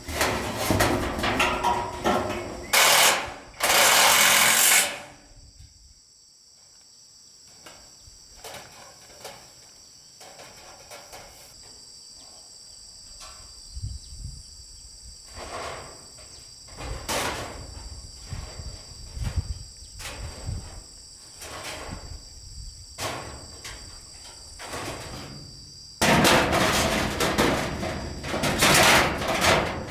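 Knocking and clattering of hand work on wood and materials, loud and busy at the start and again near the end, with scattered knocks in between. Insects trill steadily at a high pitch through the quieter middle stretch.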